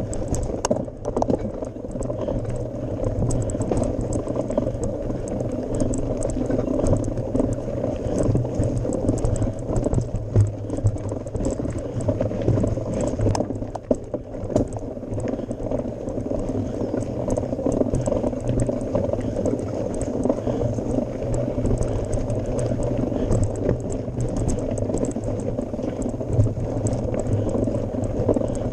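Mountain bike climbing a gravel forest road: a continuous crunch of tyres on gravel, with frequent small rattles and knocks from the bike.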